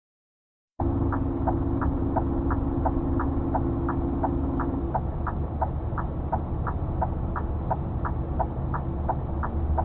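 A car's turn-signal indicator ticking evenly, about three clicks a second, alternating between two pitches, over the steady low rumble of the engine and road inside the cabin. The sound starts abruptly just under a second in, and a steady two-note hum stops about four seconds later.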